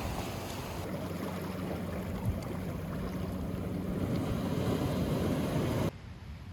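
Pacific surf washing ashore with wind on the microphone, a steady rushing noise that drops away abruptly near the end.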